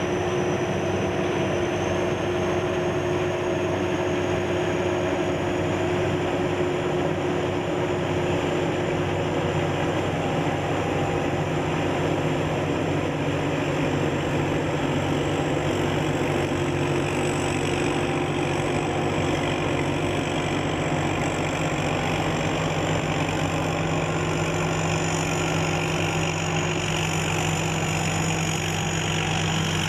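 SS-200 A rice combine harvester running steadily: engine and machinery noise with a thin high whine that slowly rises in pitch over the first several seconds and then holds.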